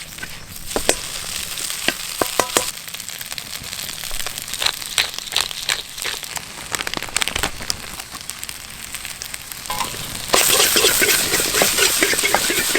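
Food frying in a hot pan: scattered sharp clicks and crackles of spitting oil, then about ten seconds in a loud, dense sizzle suddenly starts, as when ingredients go into the hot oil.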